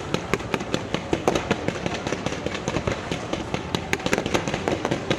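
Fireworks going off in a dense run of sharp pops and bangs, several a second.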